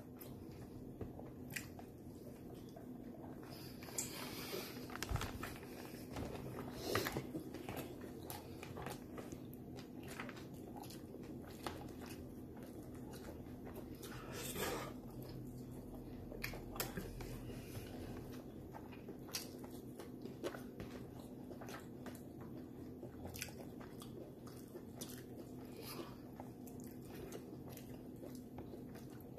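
A person chewing and biting into fried chicken wings and french fries, with scattered faint crunches and mouth smacks. A steady low hum runs underneath.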